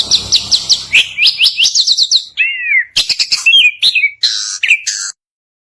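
A songbird singing a fast, varied song of quick down-slurred whistles and sharp chips, cut off abruptly about five seconds in.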